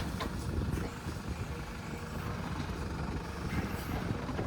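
JCB 3DX backhoe loader's diesel engine running steadily, a low, even machine sound with no sharp knocks.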